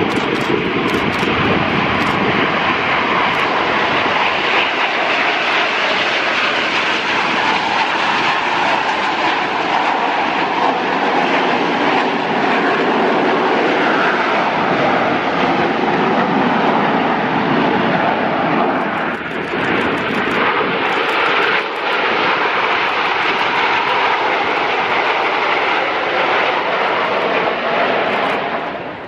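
Aircraft passing overhead: loud, steady engine noise that holds for most of the stretch and eases off near the end.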